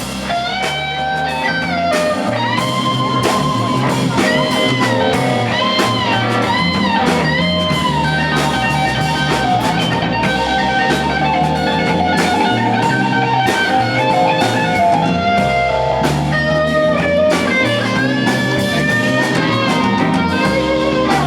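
Live blues-rock band playing, an electric guitar soloing with bent notes over bass and drums.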